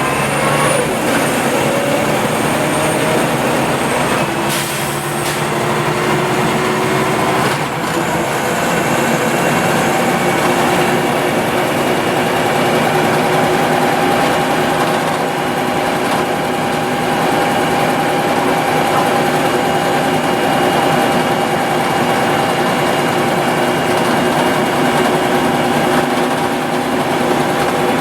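Scania OmniLink CL94UB city bus running under way: a rising whine as it picks up speed at the start, a couple of brief knocks a few seconds in, then a steady whine as it cruises at an even speed.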